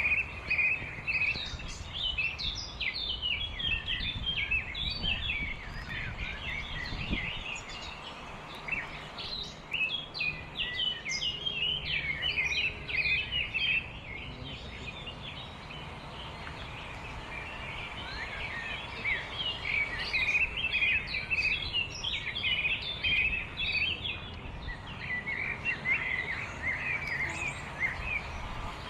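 Many small birds chirping and twittering in a dense chorus, thinning for a few seconds midway before picking up again, over a steady low background rumble.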